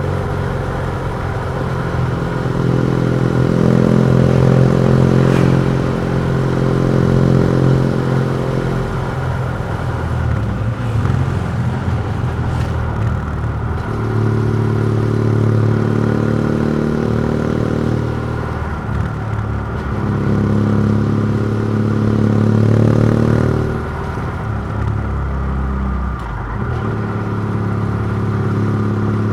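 BMW F700GS parallel-twin engine through a MIVV Oval titanium exhaust with the dB killer removed, running under load. It pulls hard in several stretches of throttle and eases off between them.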